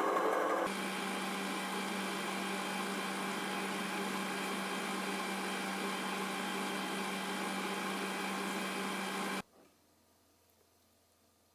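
A small electric motor of a household appliance running steadily with a constant hum. It drops to a lower, even level just under a second in, then switches off abruptly about nine seconds in, leaving near silence.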